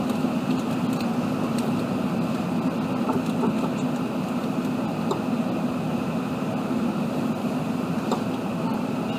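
Steady drone inside an Airbus A380 passenger cabin: engines and airflow as a low, even hum, with a few faint clicks.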